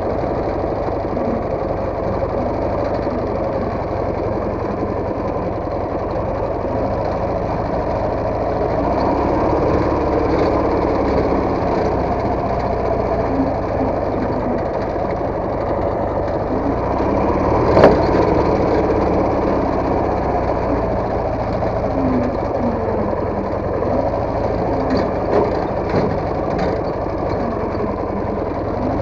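Motorcycle engine running steadily on a trail ride, heard from on board. A single sharp knock about 18 seconds in and a few lighter knocks near the end.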